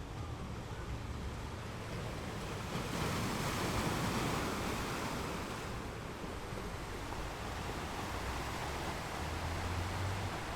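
Ocean waves breaking on rocks, a steady rush of surf that swells with one wave for a few seconds.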